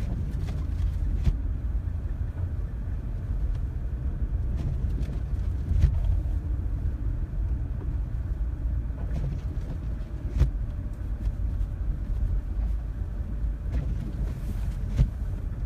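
Steady low rumble of a small passenger car driving on snow-packed road, heard from inside the cabin. A few short sharp knocks are spread through it, the loudest about six seconds in.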